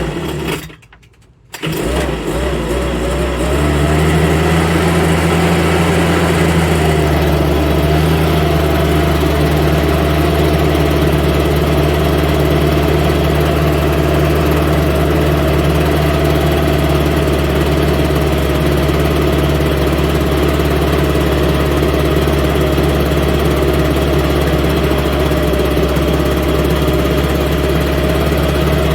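Homelite UT08572 backpack leaf blower's 30cc two-stroke engine starting. A brief burst at the start is followed by a short pause, then the engine catches about a second and a half in. It builds up over the next couple of seconds and then runs steadily.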